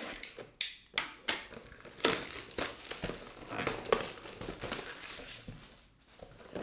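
Plastic shrink-wrap crinkling and tearing as a sealed trading-card box is unwrapped, a dense run of sharp crackles and rustles with a brief pause near the end.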